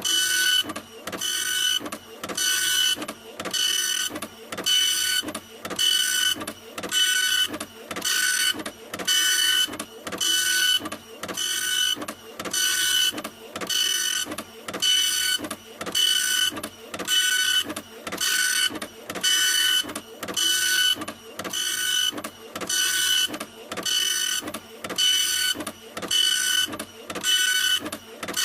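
Printer printing: a regular run of whirring strokes, about one a second, each with a steady high whine and a brief dip between strokes.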